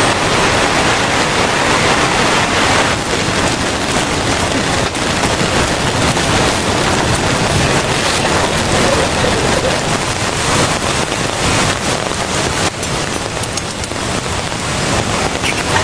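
Heavy rain falling: a loud, steady hiss with a dense patter of drops.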